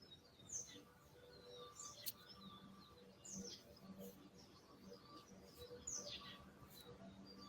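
Faint bird calls: several short, quick chirps, each falling in pitch, a second or more apart.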